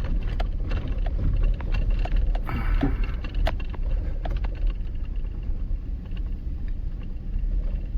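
Vehicle cabin noise while driving on a rough dirt road: a steady low rumble of the engine and tyres, with frequent irregular knocks and rattles as the vehicle goes over bumps.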